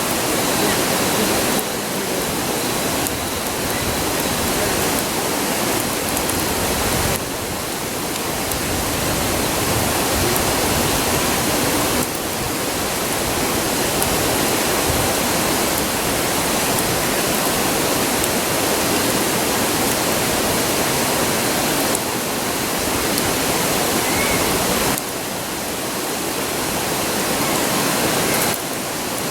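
A river rushing with a constant, even roar, with a few small sudden steps in its level.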